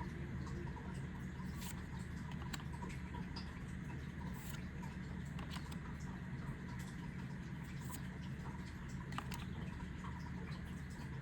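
Trading cards being handled and flipped through: light, irregular clicks and taps of card stock, over a steady low hum.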